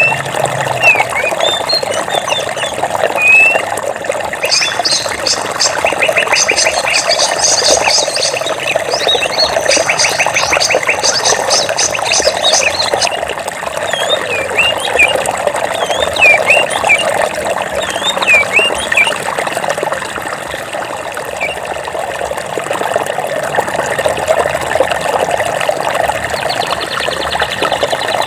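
Flowing stream water with a steady rush, and birds chirping over it in short whistled notes. A fast, rattling trill sounds from about four to thirteen seconds in.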